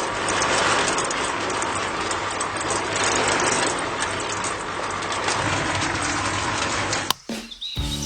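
A small motor running steadily with a dense, hissing mechanical noise, cutting off abruptly about seven seconds in.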